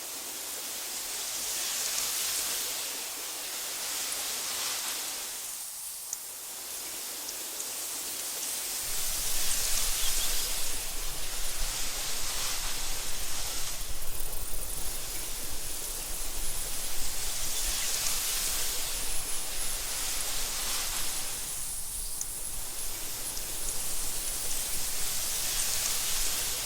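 Wind blowing through tall meadow grass: a steady hiss that swells and eases in gusts every few seconds. About nine seconds in, a low rumble joins and the sound grows louder.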